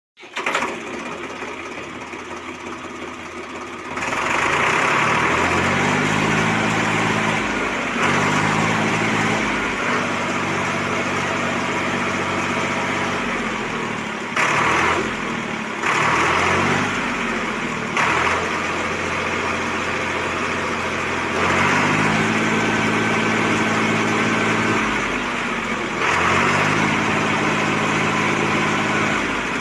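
Swaraj 744 FE tractor's three-cylinder diesel engine running, with its pitch rising and falling several times as it is revved up and settles back.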